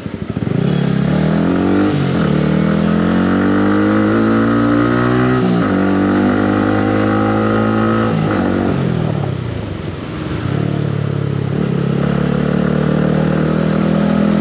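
Yamaha R15 V3's single-cylinder engine running through a loud aftermarket exhaust, accelerating hard with the revs climbing and dropping at two upshifts in the first six seconds. It holds steady, eases off and falls about nine seconds in, then pulls up again and holds a steady cruise.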